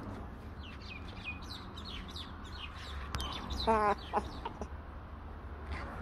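Birds chirping in quick, short notes throughout, with one louder, lower call a little before four seconds in, over a low steady rumble.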